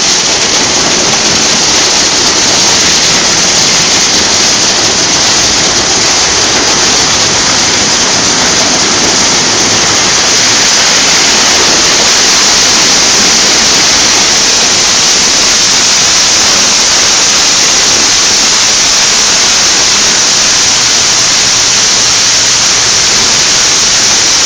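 Water spraying steadily onto a car in an automatic car wash, a loud, even rushing hiss.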